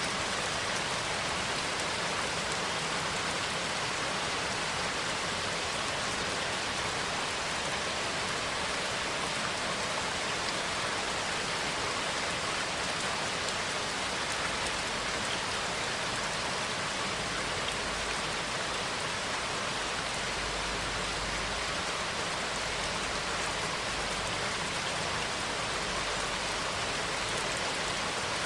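Steady rainfall: an even, continuous patter of rain with no change in strength.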